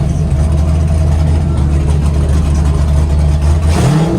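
Pro drift car's engine idling steadily, then a short rev blip near the end.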